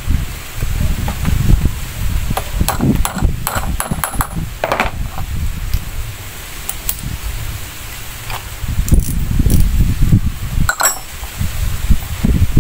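Metal tools and parts clicking and clinking in scattered bursts, some with a short metallic ring, as a fuel pump is worked on, over a loud, gusting rumble of wind on the microphone.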